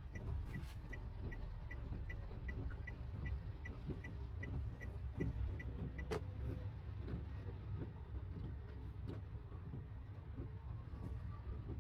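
Car creeping along a rough road, heard from inside the cabin as a steady low rumble. A light, even ticking runs about three times a second and stops about five seconds in, and there is one sharp click about six seconds in.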